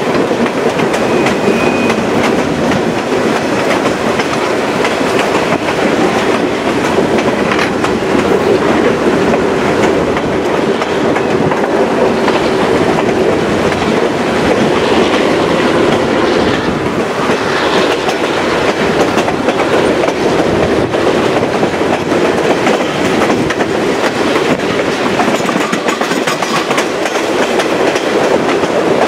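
Chepe passenger train in motion, heard from aboard one of its cars: the steady rumble of its wheels running on the rails.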